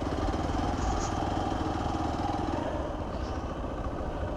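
Motorcycle engine running steadily while riding, an even drone with a low rumble underneath.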